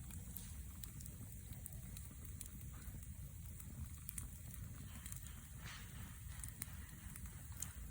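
Wood campfire crackling, with scattered faint snaps and pops over a low steady rumble.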